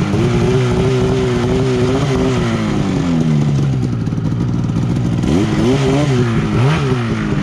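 Snowmobile engine revving up and holding high for about two seconds, then dropping back, with a few quick throttle blips near the end.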